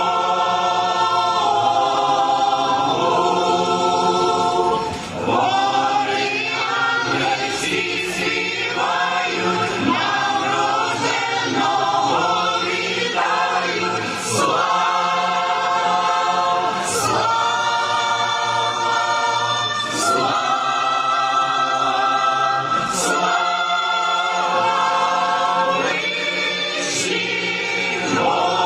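Church choir singing a Christmas carol in several voices, with sustained chords that shift every few seconds.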